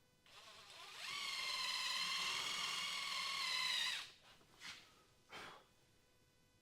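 Power drill boring out a pipe cap: a steady high whine that builds for about a second, holds for about three seconds, then stops. A couple of brief short noises follow.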